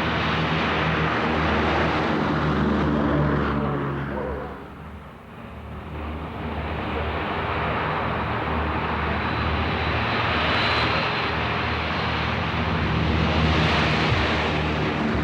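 Boeing B-17 Flying Fortress's four Wright R-1820 Cyclone radial piston engines running in a steady, deep drone. The sound dips sharply about five seconds in, then builds back to full strength.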